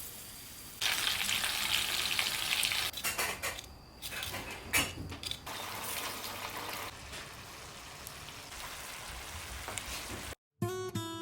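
Food frying in oil in a pan, a loud hissing sizzle that starts about a second in and eases off after a couple of seconds, with a few sharp clicks and knocks about three to five seconds in. The sizzle cuts off shortly before the end.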